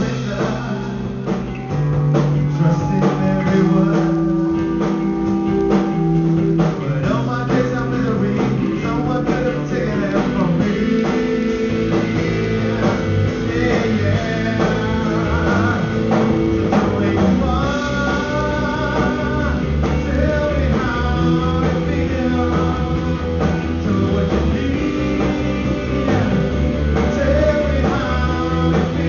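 Live band playing blues-rock with guitar over a steady low bass line and drums.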